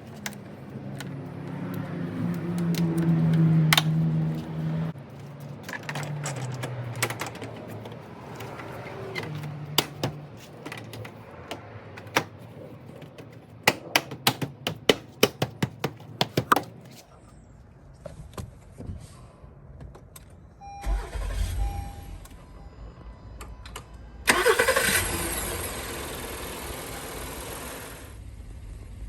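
A run of sharp clicks, then a Honda Odyssey's 3.5-litre V6 starts with a burst of noise and settles to a steady idle: the first start after a battery replacement.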